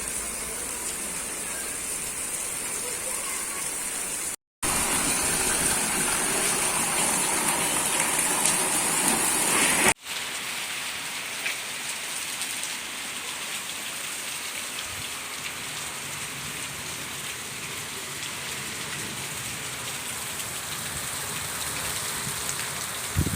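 Heavy rain falling steadily, pattering on surfaces. About four and a half seconds in the sound drops out for a moment and comes back louder, then at about ten seconds it cuts to a somewhat quieter, even downpour.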